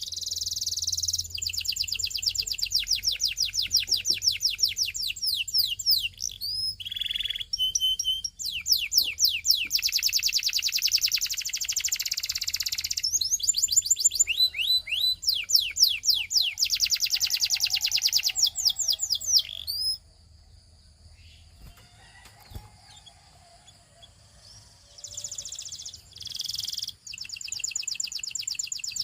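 Canary singing long phrases of rapid trills made of fast repeated sweeping notes. The song stops for a few seconds about two-thirds through, then starts again near the end.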